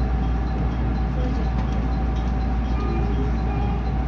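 Steady low hum of a JR 207 series electric commuter train standing still, heard from inside, with a faint steady tone above it.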